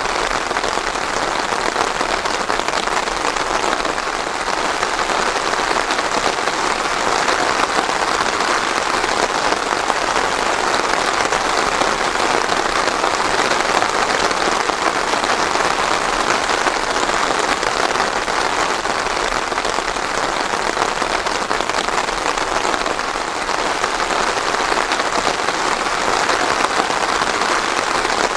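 Steady, heavy rain falling on a surface, an even dense hiss of countless drops with no thunder.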